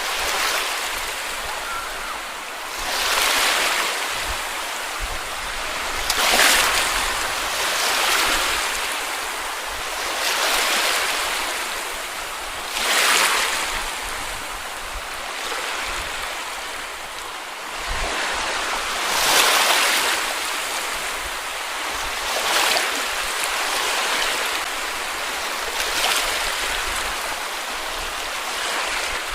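Small sea waves washing onto a beach: a steady hiss of surf that swells into a louder wash every few seconds.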